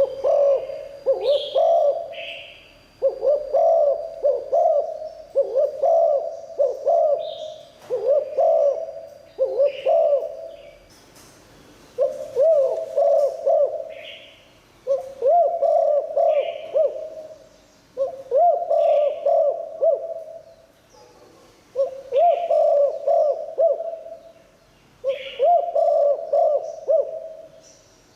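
Spotted dove cooing: the same phrase of several quick coos repeated about every two to three seconds, with short high chirps between phrases.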